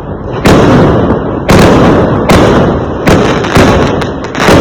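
Fireworks going off: about six loud bangs, roughly a second apart, each trailing off in a rumble.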